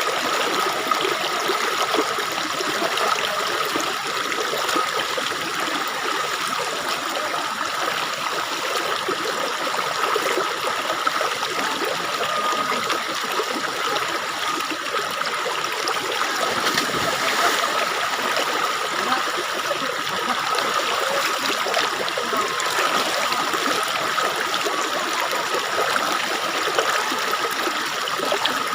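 Spring water flowing and trickling steadily, with a thin steady tone beneath it.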